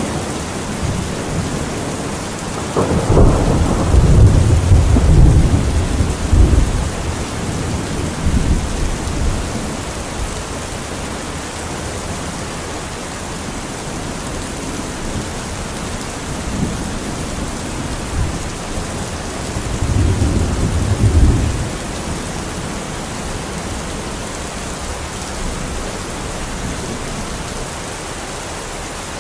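Heavy rain drumming steadily on a metal roof, with a long roll of thunder a few seconds in and a second, shorter rumble about two-thirds of the way through.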